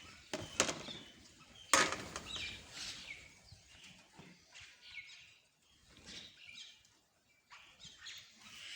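Small birds chirping in short, quick calls, broken by a few sharp knocks, the loudest just under two seconds in.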